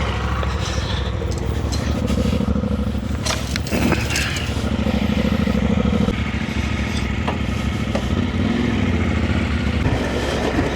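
Motorcycle engine running steadily while riding, its pitch shifting a little with the throttle, with a few short knocks.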